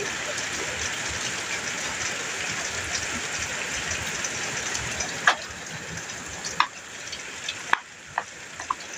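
Rain falling steadily on a metal roof, an even hiss, with a few sharp, loud drop strikes on the metal in the second half. No thunder.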